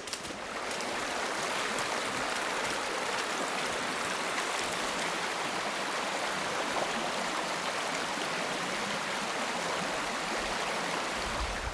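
Mountain stream rushing: a steady, even rush of water that swells in over the first second.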